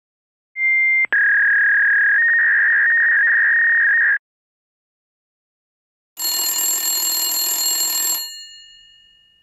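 Telephone sound effects. First a short high beep and a click, then a steady electronic phone tone for about three seconds. After a pause comes a bright, bell-like telephone ring of about two seconds that fades away.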